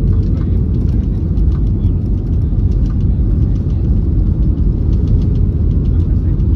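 Steady low rumble of cabin noise inside an Airbus A321neo airliner, with faint light rattles over it.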